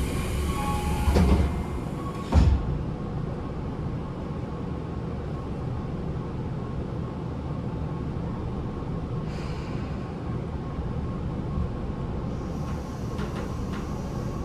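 Tobu 9050 series electric train running, heard inside a motor car: steady wheel-on-rail rumble. A loud rushing burst in the first two seconds ends in a sharp thump about two and a half seconds in.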